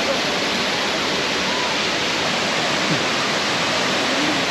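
Steady rushing of a waterfall close by, falling water on a river with no break or change.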